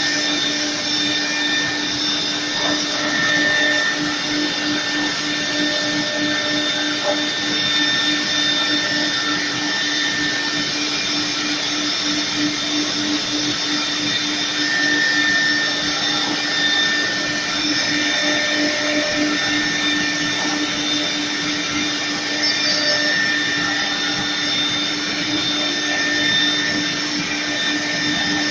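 4-axis CNC router running: a steady, unchanging machine whine with a rushing noise beneath it.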